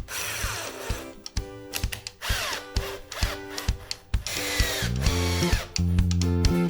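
An electric power tool runs in three short bursts, its pitch falling as it slows after each. Background music with a steady beat plays throughout and grows louder near the end.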